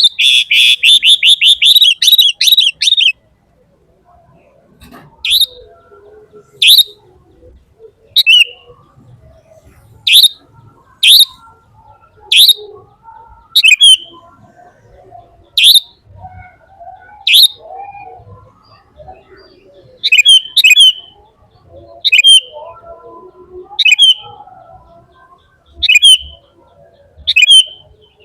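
A bird chirping: a fast rattling run of chirps for the first three seconds, then single sharp chirps about every second or two.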